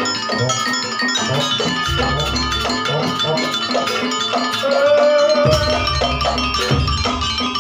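Live campursari music: an instrumental piece with struck metallophone-like notes, keyboard and drum strikes over a low bass, a higher held note standing out about halfway through.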